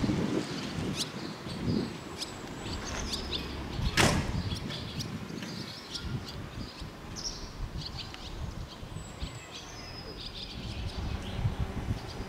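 Small birds chirping from the trees in short high calls, over a low outdoor rumble. A single sharp knock about four seconds in.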